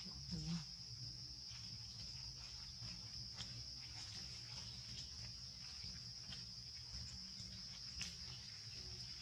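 Insects keeping up a steady, unbroken high-pitched drone, with faint scattered clicks and rustles over it.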